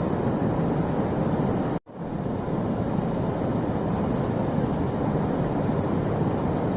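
Waterfall: a steady rush of falling water. It cuts out abruptly for a moment about two seconds in and quickly returns.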